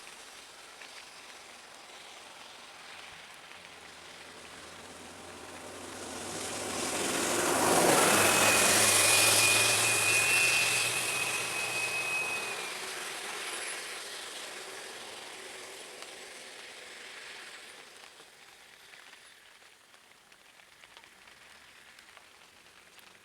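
A motor vehicle passes by on a wet road: its engine and tyre hiss build to a peak about eight seconds in, then fade away. A thin high whine holds for about four seconds at the loudest point.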